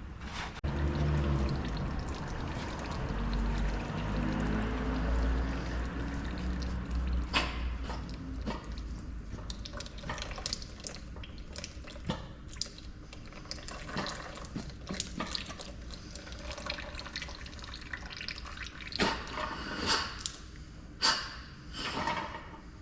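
Hydraulic oil pouring from the cylinder into a container, its pitch rising as the container fills, for the first several seconds. This is followed by scattered sharp metallic clicks and knocks as parts are handled.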